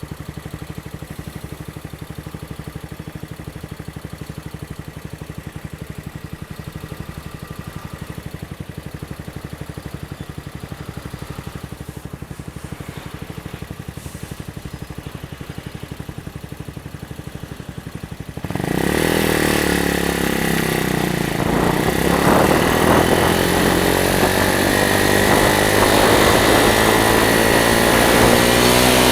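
Lexmoto Hawk 125cc motorcycle engine idling steadily, then pulling away about eighteen seconds in: the engine note gets suddenly louder and rises in pitch as the bike accelerates, with a hiss of rushing air.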